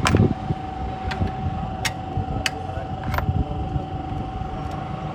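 Toyota Corolla XLi engine running, with a steady whine and a low rumble, broken by a few irregular sharp clicks in the first few seconds.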